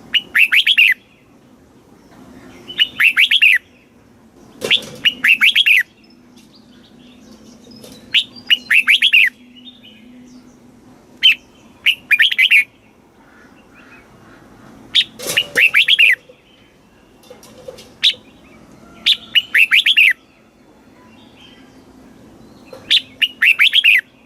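Red-whiskered bulbul singing: short, loud, quick phrases of falling notes, about nine of them, repeated every two to three seconds. This is the bulbul song used to train young birds or to rouse caged birds.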